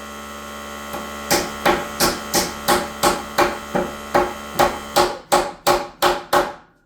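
Hammer blows on nails in wood framing: a steady run of about sixteen sharp, ringing strikes, roughly three a second, over a steady electrical hum. The sound cuts off abruptly near the end.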